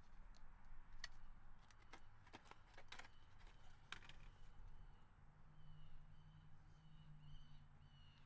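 Near silence: faint background hum with a few soft, scattered clicks.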